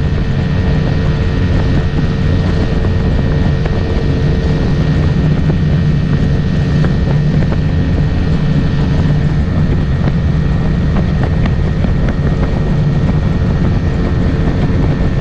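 Boat motor running steadily at speed, a constant engine drone with rushing water and wind noise over it.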